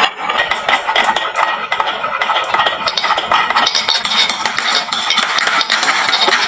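Many marbles rolling and clattering down a wooden marble run, a dense, unbroken stream of small clicks and knocks.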